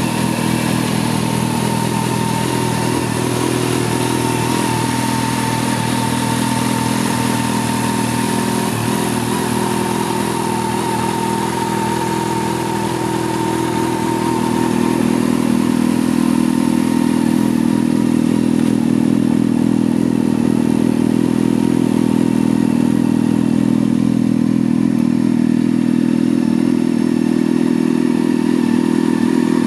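Honda CBR600F inline-four motorcycle engine running steadily at a constant low speed, getting slightly louder about halfway through.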